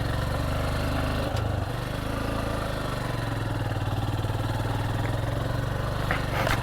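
Motorcycle engine running steadily at low revs on a rough track, with a short knock about a second and a half in, a brief change in engine note after it, and a brief rattle near the end.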